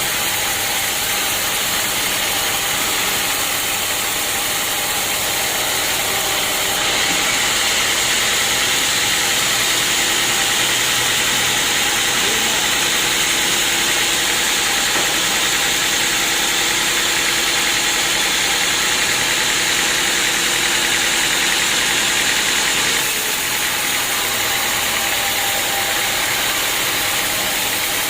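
Sawmill saw cutting acacia wood: a steady, loud machine noise that grows louder and hissier from about seven seconds in until about twenty-three seconds.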